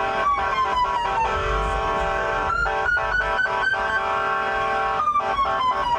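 A police siren wailing, its pitch slowly falling, rising and falling again, mixed with music that has a plucked guitar and a steady beat.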